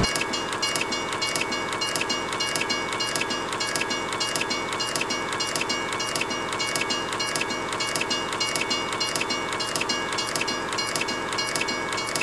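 A train running on rails, with evenly repeating clicks of the wheels and a few steady high tones over a constant rumble.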